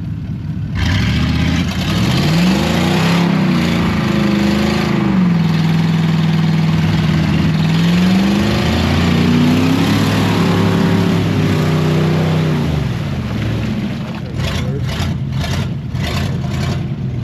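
Mud truck's engine revving under load: it climbs in pitch and holds, drops back, then climbs and holds high again before dropping off, over a steady rushing noise. Several short bursts of noise come near the end.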